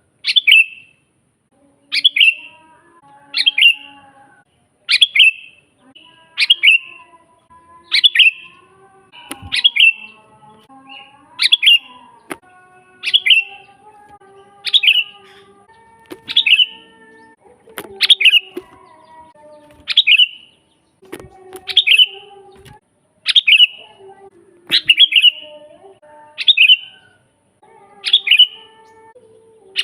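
Sooty-headed bulbul (kutilang) calling over and over: a short, sharp, falling chirp repeated evenly about every second and a half. Faint lower warbling runs between the calls.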